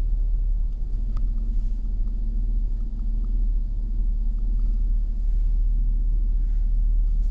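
Truck's V8 engine idling with a steady low rumble.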